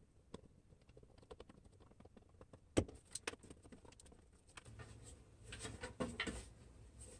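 Light clicks and taps of wooden birdhouse parts and small hardware being handled, with one sharp knock about three seconds in and a few more knocks near the end.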